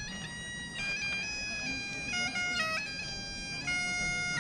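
Bagpipes playing a melody: held notes that step from pitch to pitch, with quick grace notes flicking between them.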